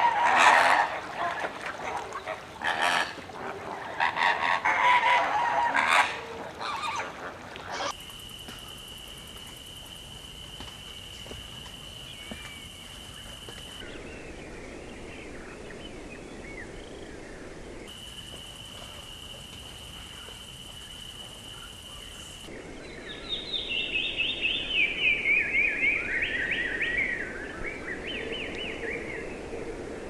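Bird and insect sounds in sequence: a flock of birds honking loudly for the first several seconds, then a steady high-pitched tone that breaks off and returns. From about two-thirds of the way in, a songbird gives a fast run of falling notes for about four seconds.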